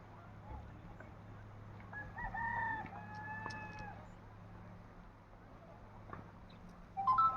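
A rooster crowing about two seconds in: a few short broken notes, then one long held note. A louder call begins just before the end.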